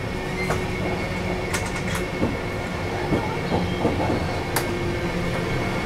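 Chennai–Bengaluru Double Decker Express running along the track: a steady rumble and rush of the moving train, with a few sharp clicks scattered through it.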